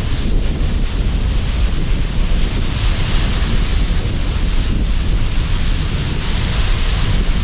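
Sea surf and strong wind: a steady loud rush with a deep low rumble, the hiss swelling a little a few seconds in.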